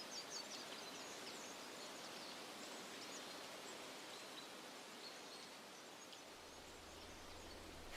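Quiet woodland ambience: a steady faint hiss, with a few faint high chirps in the first couple of seconds.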